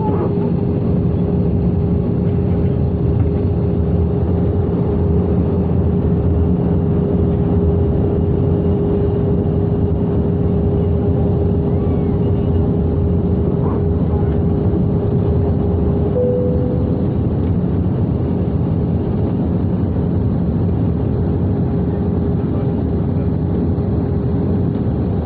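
Steady cabin drone of an Airbus A320-214 in flight, from its CFM56 turbofan engines and the airflow over the fuselage, with a constant hum running through it. A brief, higher tone rises out of it about sixteen seconds in.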